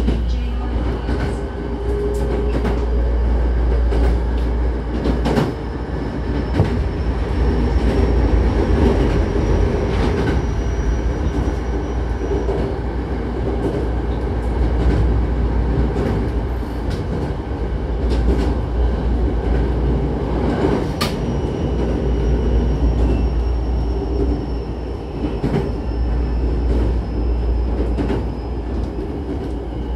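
Hankyu Kyoto Line electric train running, heard from inside the passenger car: a steady low rumble with irregular clicks and knocks from the wheels on the rails. A faint high whine comes in twice, each time for several seconds.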